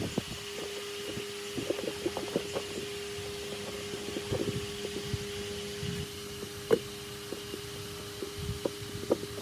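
A steady mechanical hum with irregular light knocks and taps scattered through it, one sharper knock in the middle.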